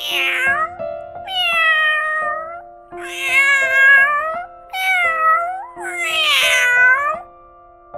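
A domestic cat meowing five times in long, drawn-out calls that slide down in pitch, over soft sustained notes of background music.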